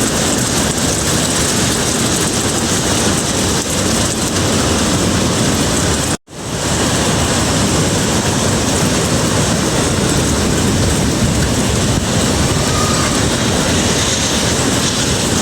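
Hurricane wind and heavy rain: a loud, steady rushing noise that breaks off briefly about six seconds in.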